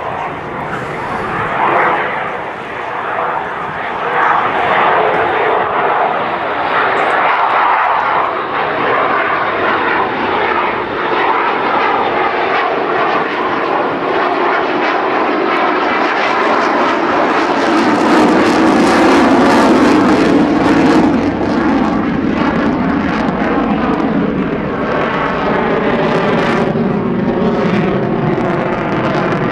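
Eurofighter Typhoon's twin Eurojet EJ200 turbofans running loud through a display manoeuvre, the jet noise swelling to its loudest and most hissing about two-thirds of the way through, then falling off with sliding tones near the end.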